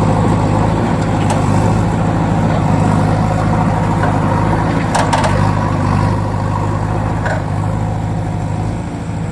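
A vehicle engine running steadily with an even, low hum, and a couple of faint clicks partway through.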